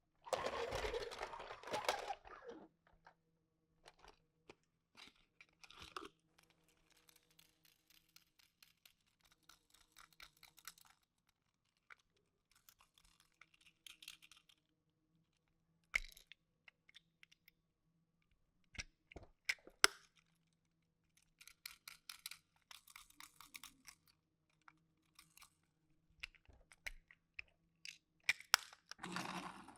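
Hands handling toy packaging and small die-cast minicars: a burst of rustling near the start, then scattered clicks and short rustles.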